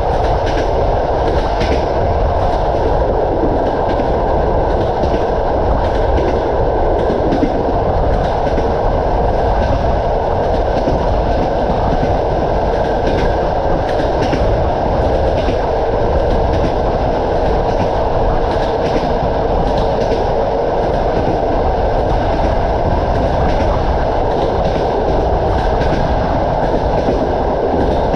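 Passenger train coach running at speed, heard from inside: a steady rumble of wheels on rails with frequent sharp clicks as the wheels cross rail joints.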